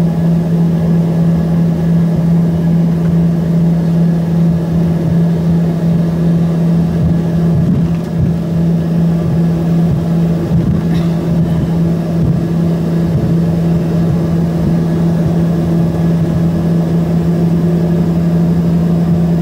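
Embraer ERJ-145's rear-mounted Rolls-Royce AE3007 turbofan engines running steadily, heard from inside the passenger cabin as a loud, even drone with a constant low hum.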